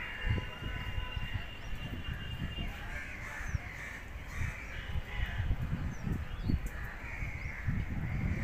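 Birds calling several times, with a gusty low rumble of wind buffeting the microphone.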